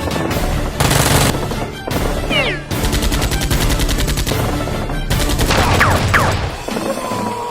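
Dubbed sound effects of rapid automatic gunfire in two long bursts through the middle, with a couple of short falling whines, over background music.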